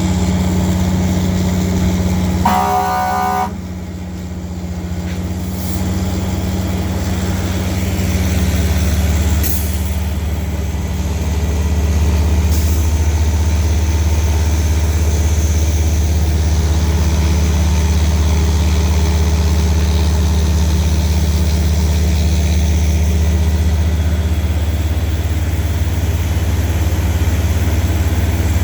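Heavy fire truck engines running steadily at a deep drone. A short horn-like tone sounds about three seconds in, and two brief clicks come later.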